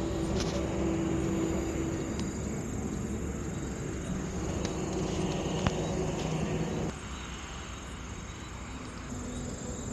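Crickets chirping steadily over the low hum of an idling truck engine. The engine hum drops away suddenly about seven seconds in, leaving the crickets.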